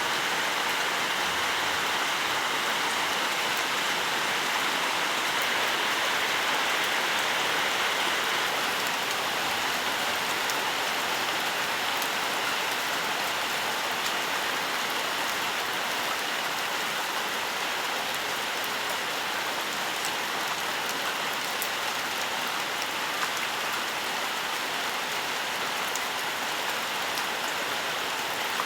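Steady rain falling on leaves and ground, an even hiss with scattered faint drop ticks.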